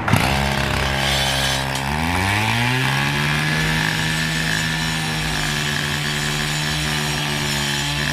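A small petrol engine running, which revs up about two seconds in and then holds a steady high pitch.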